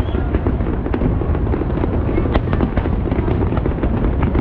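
Aerial fireworks going off in a dense, continuous barrage: many sharp cracks and bangs close together over a steady low rumble.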